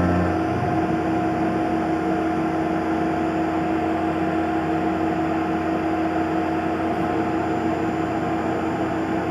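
Tormach PCNC 1100 CNC mill running on MIC6 aluminium plate: a steady machine hum and whine with several fixed tones over a hiss. The pitch pattern shifts about half a second in and then holds steady.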